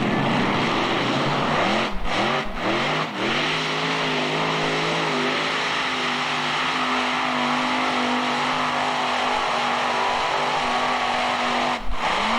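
Modified-class pulling tractor's engine running flat out on a pull. About two seconds in the engine speed dips and surges three times, then it holds a steady high note, with another dip and surge near the end.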